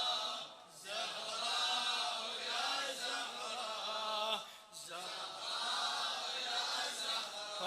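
A group of male mourners chanting a latmiyya refrain together, soft and somewhat distant, in two phrases of about four seconds each.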